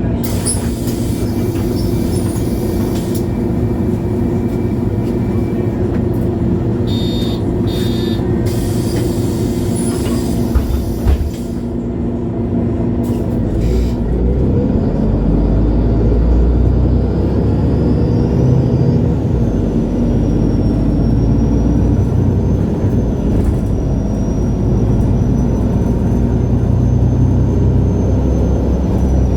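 MAN Lion's City G articulated bus's diesel engine idling, with two short bursts of compressed-air hiss and a couple of sharp knocks about ten seconds in. The bus then pulls away: the engine note deepens and grows louder as it accelerates, and a thin high whine climbs and then holds steady.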